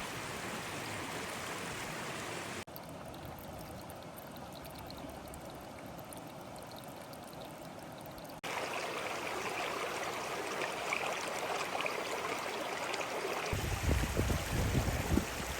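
Mountain river water rushing steadily, changing abruptly in level and tone twice as the shots change. A deep rumble comes in near the end, growing louder.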